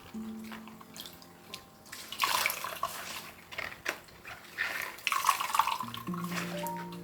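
Water running from a kitchen tap into a sink in two short spells, about two seconds in and again about four and a half seconds in, with light clicks of things being handled between them. Soft background music plays under it.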